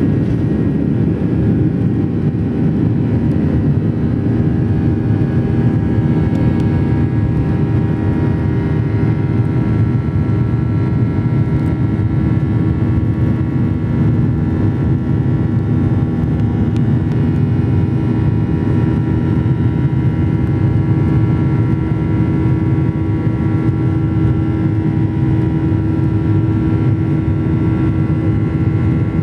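Steady jet engine drone heard inside the cabin of a Boeing 737-800 in flight: an even low roar with a constant hum and whine over it.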